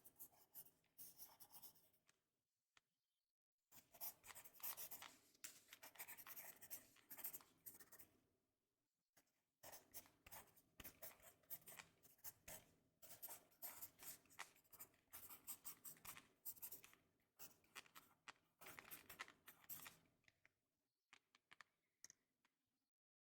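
Pencil or pen scribbling on paper close to the microphone, in quick scratchy strokes. It comes in runs of several seconds with short pauses between, and thins to a few scattered strokes near the end.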